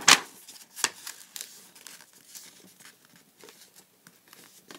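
A sheet of printer paper rustling and crinkling as a corner is folded down and creased. There is a sharp crackle right at the start and another about a second in, then softer scattered rustles.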